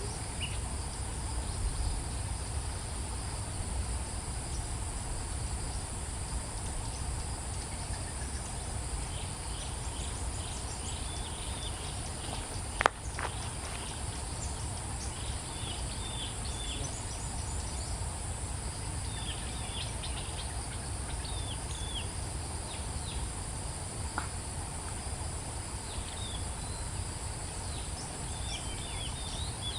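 Steady high-pitched insect drone with many short, quick bird chirps coming in from about a third of the way through. About midway there is a single sharp click, with a low rumble underneath throughout.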